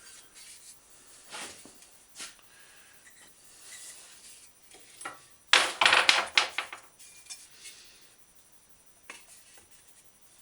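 Wood knocking on a bicycle fender set in a wooden forming block, hammering out a dent: a few scattered knocks and handling clatter, then a quick run of sharp, loud strikes a little past halfway.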